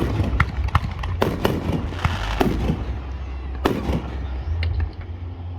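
Fireworks going off: a rapid run of sharp bangs and pops in the first four seconds, thinning out near the end, over a steady low rumble.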